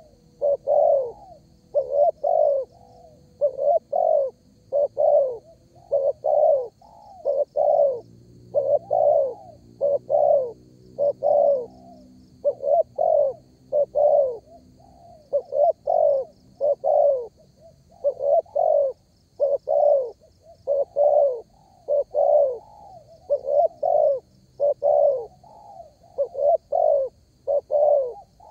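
Spotted dove (derkuku) cooing vigorously, the same low phrase of several coos repeated every couple of seconds.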